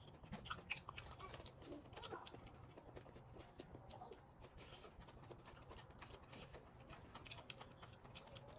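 Faint eating sounds of people chewing grilled steak and asparagus: soft wet mouth clicks and smacks, scattered irregularly, over a low steady hum.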